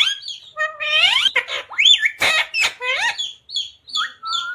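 Pet parrot calling without pause: a rapid run of high squawks, short chirps and gliding, speech-like chatter.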